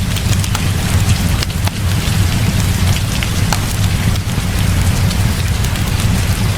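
Heavy rain falling steadily over a continuous low rumble, with scattered sharp crackles and pops.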